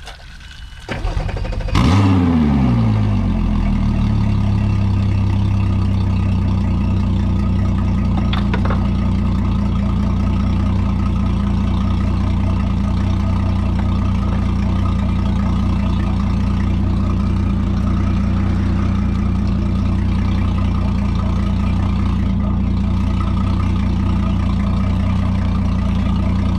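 Outboard motor starting about two seconds in: its revs flare, drop, and settle into a steady idle as it runs on a freshwater flush.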